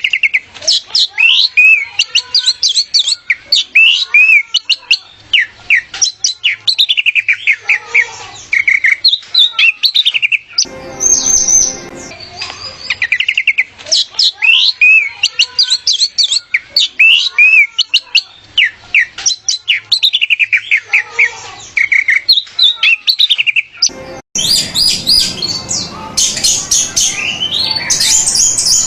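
Orange-headed thrush (anis merah) singing: long, rapid runs of varied whistled and chirping notes, with a short break about ten seconds in. After an abrupt cut near the end comes a denser, busier stretch of song.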